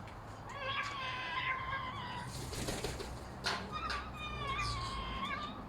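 A bird calling twice, each call a long, steady, slightly wavering note of about a second and a half, with a brief hiss between the calls.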